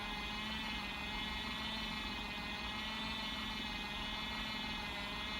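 Small beauty blender washing machine running a wash cycle, its motor spinning the sponge with a steady whir.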